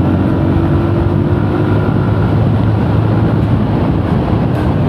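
A TVS Apache RTR motorcycle's single-cylinder engine running steadily while riding along, with wind rushing over the microphone.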